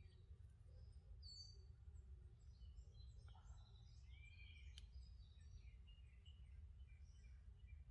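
Faint birdsong: several birds giving short high chirps and quick falling notes, over a low steady rumble, with one faint click about five seconds in.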